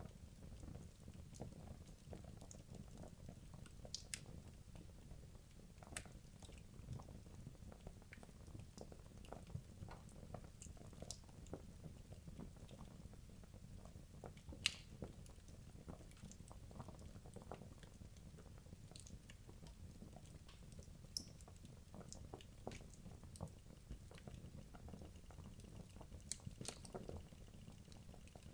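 Wood logs burning in a fireplace: faint, irregular crackles and pops over a low steady rumble, with a sharper pop about halfway through and another about three-quarters through.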